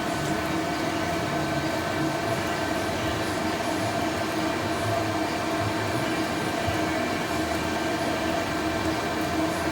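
Steady mechanical drone with a constant hum running through it.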